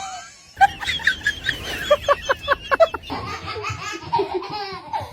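Laughter, with a quick run of short ha-ha pulses about two seconds in, followed by more voice sounds.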